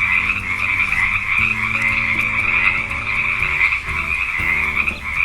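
Frogs croaking in a continuous, dense chorus.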